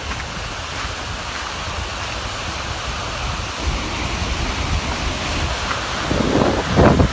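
Steady rushing noise of storm water from heavy rain and runoff, with gusts of wind buffeting the microphone from about six seconds in.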